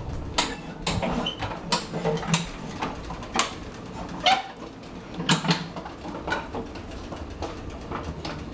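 Irregular clicks, knocks and rattles of a child's ride-on toy tractor being driven, with a brief squeaky sound about four seconds in.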